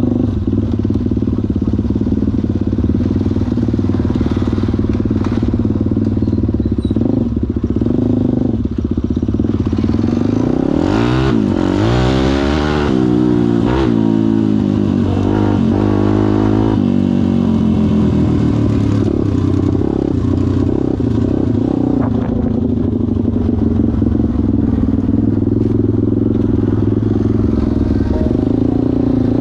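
Kayo pit bike engine running steadily, then revved up and down several times in the middle, its pitch rising and falling, before settling back to a steady run.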